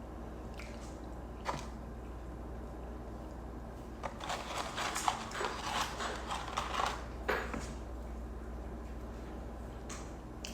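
Eating noises close to the microphone: a single click about a second and a half in, then a few seconds of crackly, crunchy chewing and rustling from about four seconds in.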